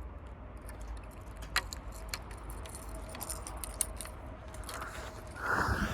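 Fishing reel being cranked to retrieve a big-bait lure: scattered small clicks and rattles over a faint steady whine. A louder rustling noise comes near the end.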